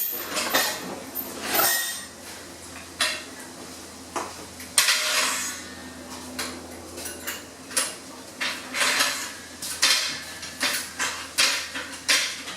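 Irregular metallic clanks and clinks of tools and lifting gear being handled, with a longer scraping clank about five seconds in.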